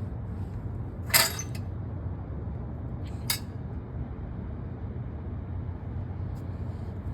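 Car engine idling through a newly changed exhaust, a steady low rumble, with two short sharp clicks about one and three seconds in.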